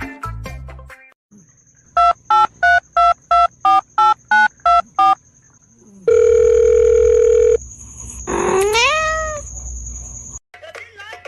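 About ten telephone keypad beeps, roughly three a second, then a loud steady dial tone for about a second and a half, then one rising cat meow.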